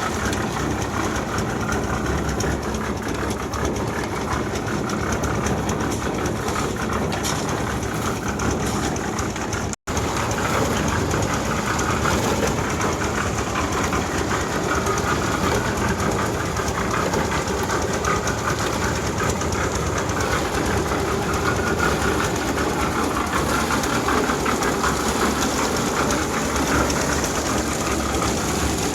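A machine's engine running steadily on a building site, cutting out for an instant about ten seconds in.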